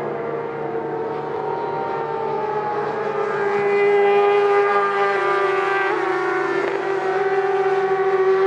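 Superbike engine running at high revs, its pitch holding nearly steady with slight dips, growing louder about four seconds in.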